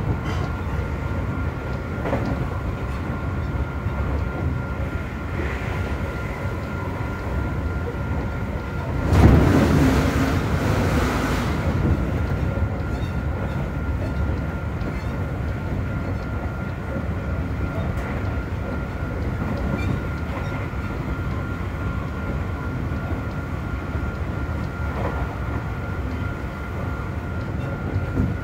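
Onboard running sound of a Seibu 40000 series electric train, a Toshiba IGBT-VVVF inverter driving permanent-magnet synchronous motors, at speed: a steady rumble of wheels on rail with a thin steady high tone over it. About nine seconds in a louder rush of noise swells for two or three seconds, then settles back.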